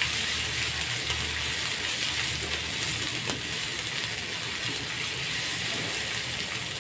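Peanuts, tomato and chilli paste sizzling steadily in a little oil on a flat metal pan, while a wooden spatula stirs and scrapes them across the metal.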